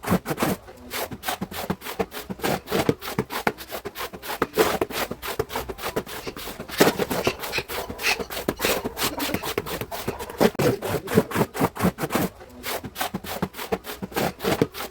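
A stiff brush scrubbing a hard surface in quick, repeated back-and-forth strokes, with a short pause near the end.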